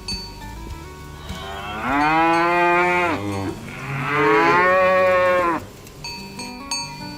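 A cow mooing twice, two long calls about two seconds each, rising in pitch at the start and falling away at the end. Faint background music with chime-like notes continues under and around them.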